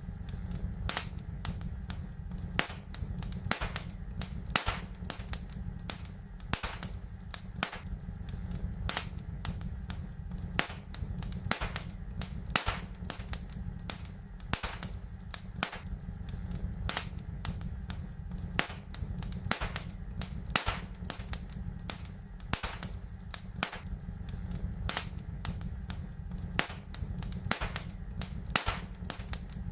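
Wood fire in a fireplace crackling, with frequent, irregular sharp pops and snaps over a low, steady rumble.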